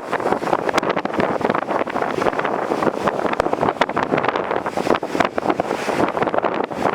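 Strong gusty wind buffeting the microphone, a loud, constantly fluttering rush.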